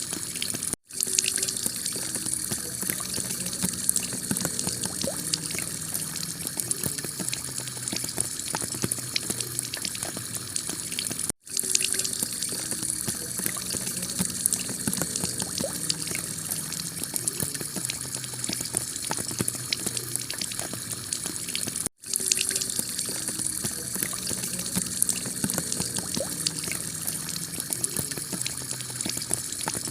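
Heavy rain pouring onto a tiled roof, a dense, steady hiss of water with many fine drop ticks. It cuts out for a split second three times, about every ten and a half seconds, where the recording loops.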